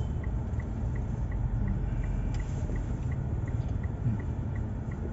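A car driving, its engine and tyres making a steady low rumble, with a faint even ticking about three times a second.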